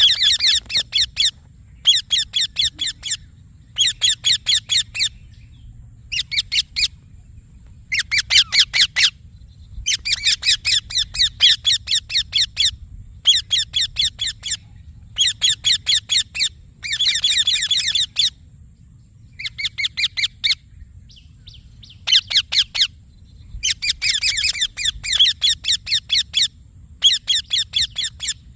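Rose-ringed (Indian ringneck) parakeet calling in repeated bursts of fast, harsh chirps. Each burst lasts about a second, with short pauses between.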